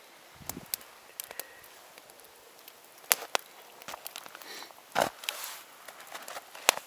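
Campfire crackling: sharp snaps and pops come at irregular intervals over a low background hiss, with a fuller crunch about five seconds in.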